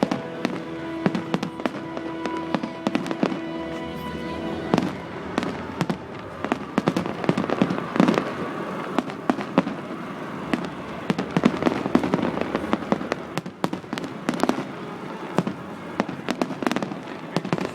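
Fireworks going off: a dense run of sharp bangs and crackling reports, coming thick and fast through the display.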